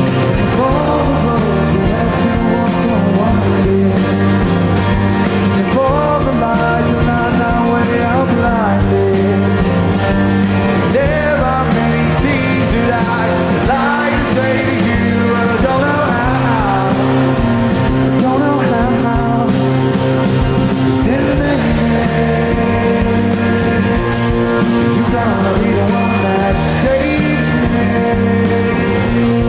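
Rock band playing live at a steady loud level: guitars, bass and drums, with a gliding melodic line above.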